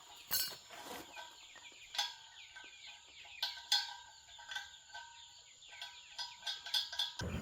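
Chickens clucking and cheeping in a series of short falling calls, with a few sharp taps among them. A louder low rumble starts right at the end.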